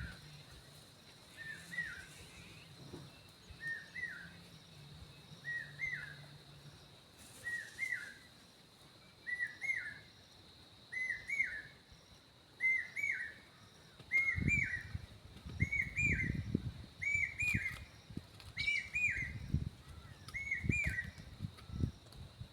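A bird calling over and over, a short hooked chirp about every one and a half to two seconds, getting louder as it goes. A steady high insect whine runs underneath, and there are low thuds and rustling in the second half.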